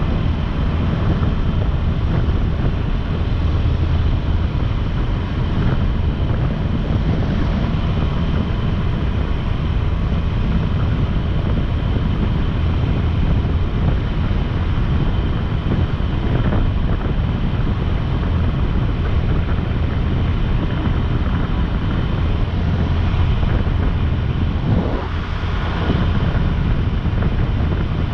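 Motorcycle engine running steadily at road speed, with heavy wind noise on the microphone. Near the end the level dips briefly and the engine note then rises again.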